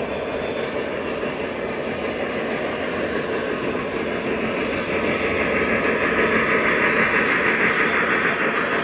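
O gauge model train running on its track with a steady rolling rumble, getting louder about halfway through as it comes closer.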